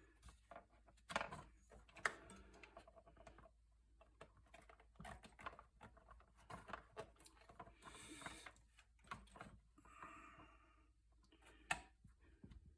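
Quiet, scattered clicks and small knocks of hands handling and fitting fuel hose and fittings on a small engine's carburetor, with a few sharper clicks about one, two and twelve seconds in and a brief rustle about eight seconds in.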